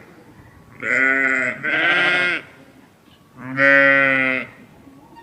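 Bleating livestock: three wavering bleats, the first two back to back about a second in, then a longer one about three and a half seconds in.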